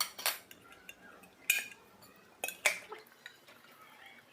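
A metal rice pot and utensils clinking and knocking as the pot is opened and handled: about five or six short, separate clanks, the loudest about a second and a half in and near the end.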